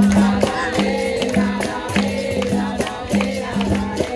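Capoeira roda music: a berimbau sounding a repeated rhythmic figure, with tambourine-like pandeiro hits and rattles, under a group of voices singing.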